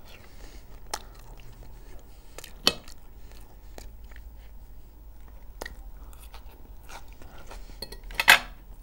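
Close-up eating sounds: a person chewing a mouthful of fried liver, with a few sharp clicks of a metal fork against the plate and one louder, short sharp sound near the end.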